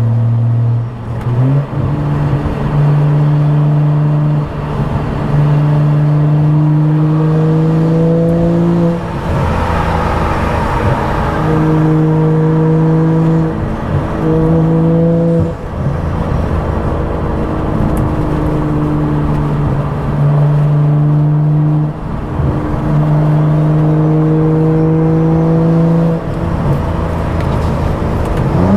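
BMW F10 535i's stage 2+ tuned turbocharged inline-six with a loud aftermarket exhaust, driving at fairly steady revs that creep slowly upward. The engine note breaks off briefly several times, then picks up again.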